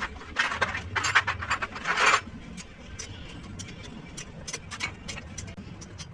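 Metal parts and hand tools clicking and scraping during brake work, in a dense cluster for the first couple of seconds, then scattered single clicks.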